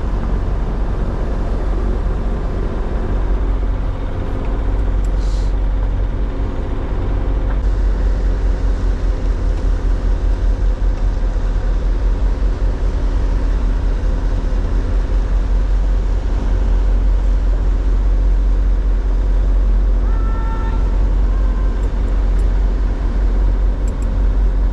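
A sailing yacht's engine running steadily while the boat motors along, a deep, even drone that holds constant throughout.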